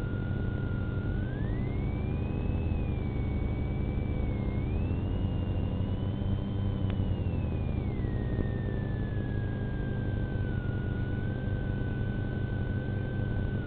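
A siren tone holds steady, rises about a second in, wavers high for several seconds, then slides back down to its starting pitch. Underneath it is a steady low rumble from the patrol car and the storm.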